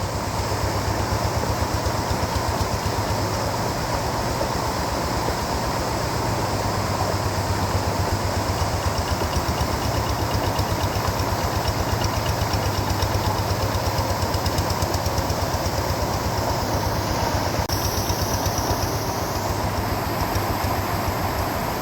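Rice-field tractor's diesel engine running steadily with an even, rapid chugging.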